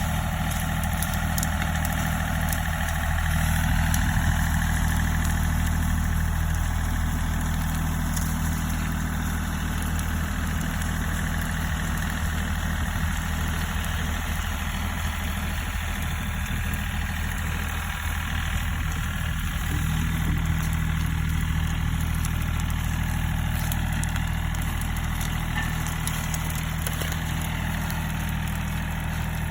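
John Deere tractor engine idling steadily, a low, even engine note.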